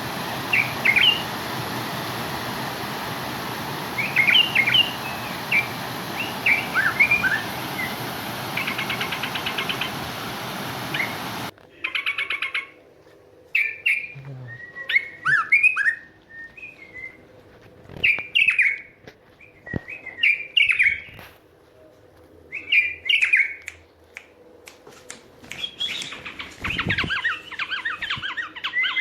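Songbirds chirping and calling in short phrases. For the first third the calls sit over a steady hiss that cuts off abruptly. After that the calls come in separate bursts with quiet between them.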